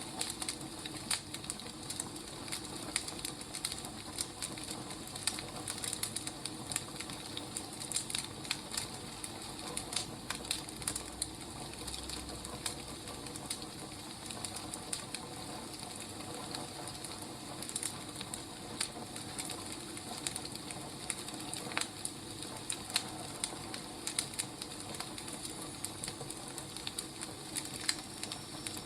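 Burning firewood crackling and popping with irregular sharp snaps over a steady hiss.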